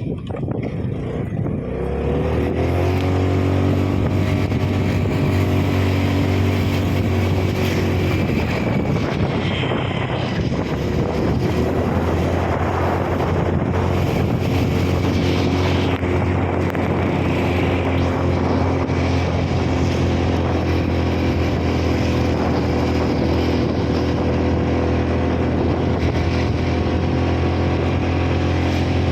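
Vehicle engine running steadily, getting louder about two seconds in and then holding an even pitch.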